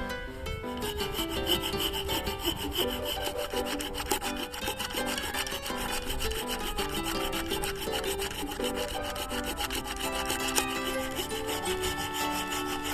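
Cheap hand saw cutting through a wooden log in steady, rapid rasping strokes. A stepped melody runs underneath.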